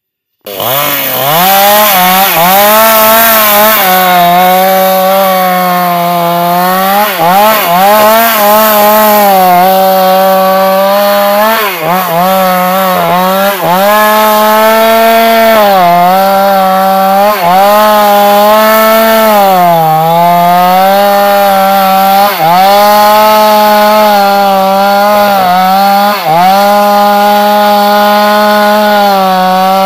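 New West two-stroke chainsaw running near full throttle while cutting a large sengon trunk. It starts suddenly about half a second in, and its pitch repeatedly sags as the chain bogs down under load in the wood, then picks back up.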